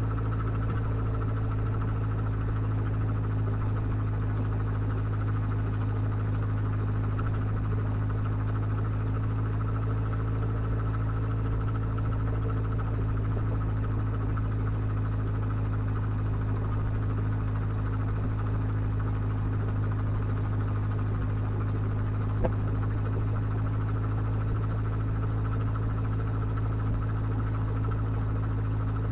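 Motorcycle engine idling, a steady hum that holds one pitch throughout, with a single short click about 22 seconds in.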